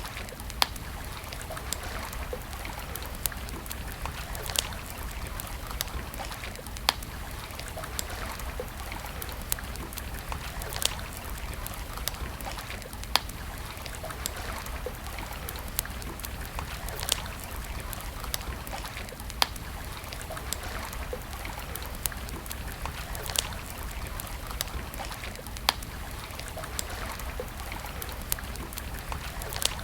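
Campfire burning and crackling, with sharp pops every second or two over a steady hiss and low rumble.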